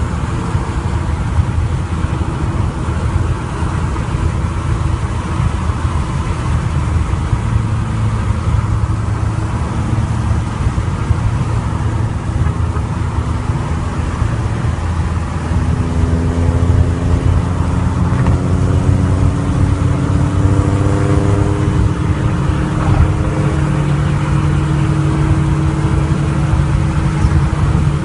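Car engine running while driving, over steady low road rumble. About halfway through, its pitch starts climbing slowly and evenly as the car speeds up.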